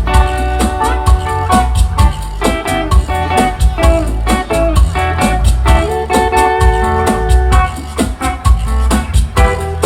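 Live band playing an instrumental break, with guitar-led melody over bass and a steady drum beat.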